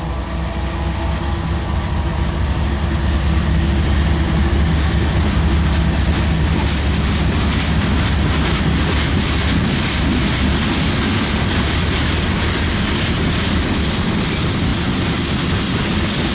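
Train passing close by: a deep diesel rumble with the steady roar and clatter of wheels on the rails, growing louder over the first few seconds and then holding.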